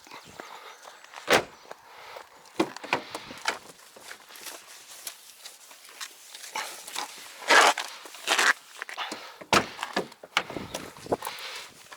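Irregular footsteps, knocks and rubbing swishes of hand car washing, a microfiber wash mitt being worked over the car's body. The loudest swish comes about seven and a half seconds in.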